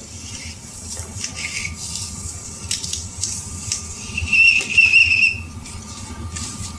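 A high, slightly wavering whistle held for about a second, about four seconds in, over a faint steady tone and scattered light clicks.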